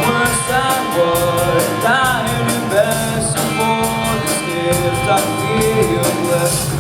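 Live rock band playing: a drum kit keeping a steady cymbal beat under electric guitars and bass, with a melody line that bends and slides in pitch.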